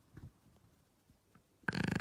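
Dog snoring: a faint snuffle about a fifth of a second in, then a loud, fast-fluttering snore starts near the end.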